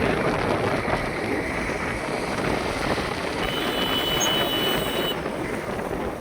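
Steady rushing noise with no clear pitch. Between about three and a half and five seconds in, a faint high steady tone sounds over it and then stops.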